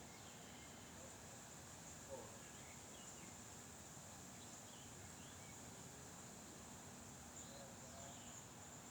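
Near silence: faint outdoor ambience with a steady high-pitched insect trill and a few scattered faint chirps.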